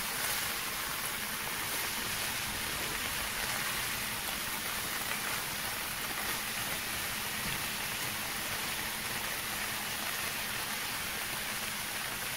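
Black beans, cabbage, bell peppers and onion sizzling steadily in a hot pan, a continuous frying hiss.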